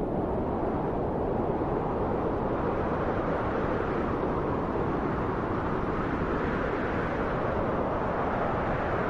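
Steady wind, a low rushing noise that swells gently a couple of times.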